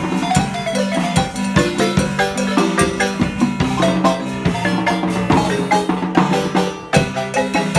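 Marimba music: quick runs of struck wooden-bar notes over a steady bass line, with percussion keeping a regular beat. The music drops out briefly about seven seconds in, then picks up again.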